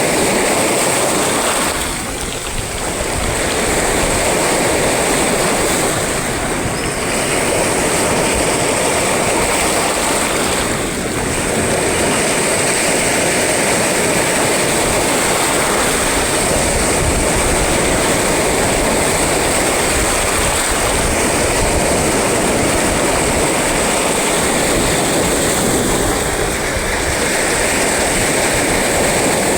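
Sea surf: waves breaking and washing continuously in one loud, unbroken roar, easing slightly for a moment a few times.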